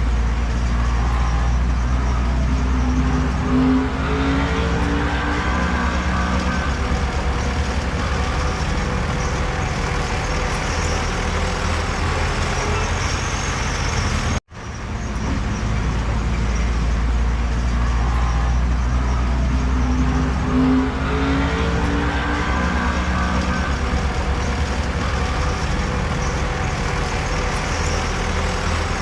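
Heavy diesel earthmoving machinery running steadily under load, its engine note shifting up and down a little. The sound cuts out abruptly for a split second about halfway, then carries on.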